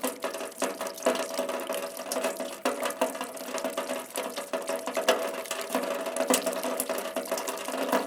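Rain falling steadily, with many sharp ticks of single drops striking through a continuous wash.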